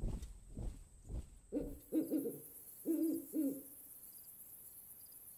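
An owl hooting four times, in two pairs, over faint high cricket chirps. Before the hoots, in the first second and a half, a steady run of marching footsteps fades out.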